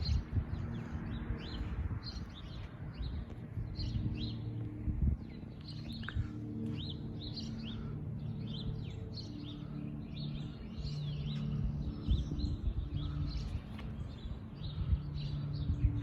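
Many small songbirds chirping and twittering in quick, overlapping short calls, over a low rumble.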